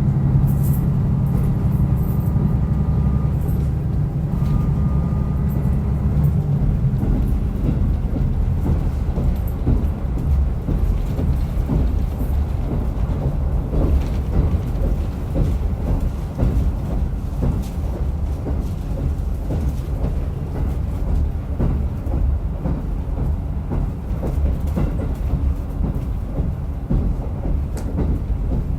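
Rumoi Main Line diesel train running on the rails. The engine pulls with a steady low drone for about the first six seconds, then drops away to coasting, leaving the rumble of the wheels with frequent irregular knocks from the track.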